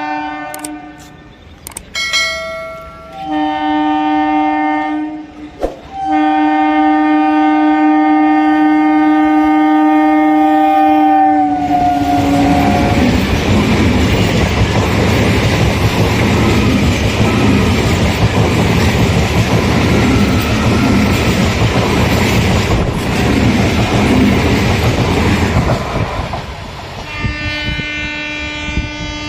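Local passenger train's horn sounding in a few short blasts and then one long blast that drops in pitch as the train reaches the crossing. The train then passes for about fourteen seconds with loud rumbling and wheel clatter, and near the end a horn sounds again, held steady.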